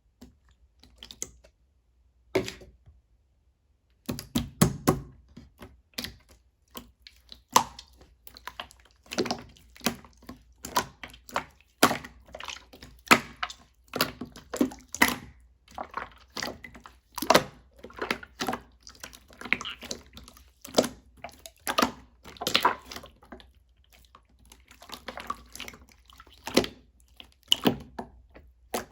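Blue slime worked by hand, giving an irregular run of wet clicks and pops. It starts sparse and becomes dense about four seconds in.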